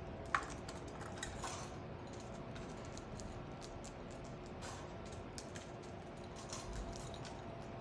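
Faint, scattered light clicks and taps, with one short high blip near the start, over a steady faint hum.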